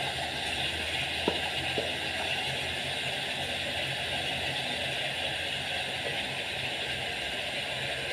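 Steady hiss of chicken frying in an aluminium pot over a low steady hum, with two light knocks about a second in, as sliced tomatoes are tipped in and stirred with a wooden spatula.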